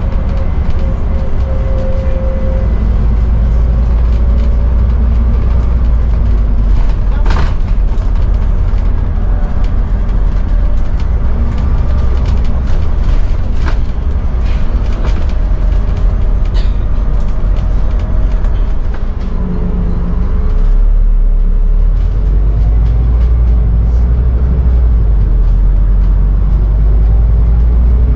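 Scania N280UD double-decker bus's five-cylinder diesel engine running as the bus drives along, with a steady low rumble and road noise. A few sharp knocks and rattles come through from the body, and the engine note changes about two-thirds of the way through.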